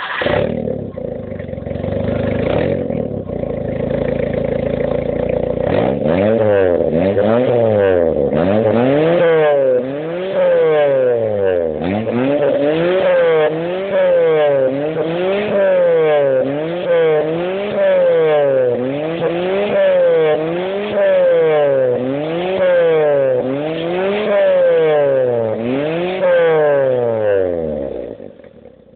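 Nissan Sunny Turbo Le Prix engine through its cat-back exhaust, idling just after starting, then revved over and over. Each rev rises and falls in about 1.5 to 2 seconds. The sound dies away near the end.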